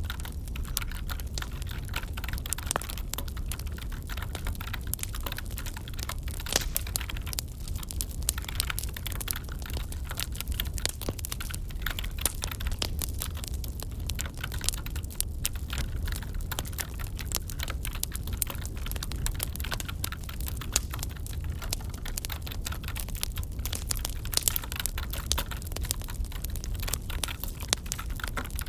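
Wood fire crackling, with dense irregular snaps and pops over a steady low rumble.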